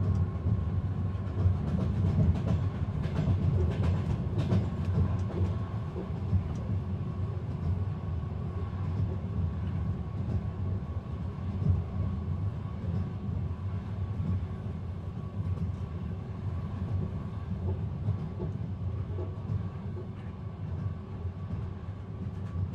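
Inside a moving passenger train: a steady low rumble of the carriage running on the rails, with a faint steady hum and scattered light clicks, easing slightly toward the end.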